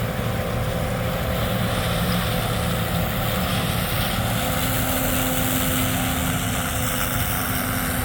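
Harvest equipment's engine running with a steady drone. A faint steady hum joins in about three seconds in.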